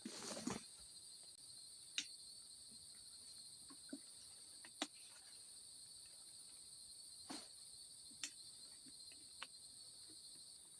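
Steady high-pitched chorus of forest insects, holding two pitches without a break, with a few short sharp clicks scattered through it.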